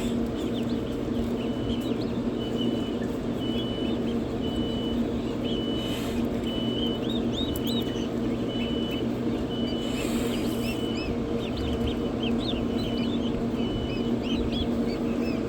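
Newly hatched ducklings and turkey poults peeping: many short, high cheeps, with one high, even peep repeating about once a second from a couple of seconds in. Under them runs the steady hum of the incubator's fan.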